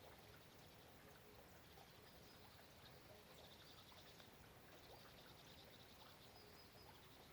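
Faint, steady hiss of rain, with repeated high, pulsing trills from small animals coming and going over it.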